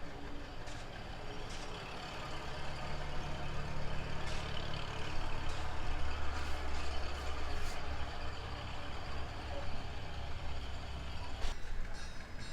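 An engine running steadily, louder in the middle, with scattered sharp clanks.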